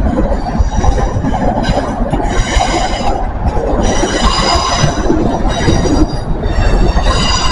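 CrossCountry Voyager diesel train moving along the track, its wheels squealing. The high squeal comes and goes several times over a steady rumble.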